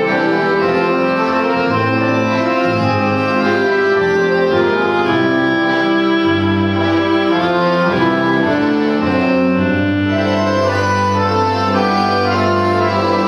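An accordion orchestra playing in ensemble: sustained, reedy held chords over a steady moving bass line.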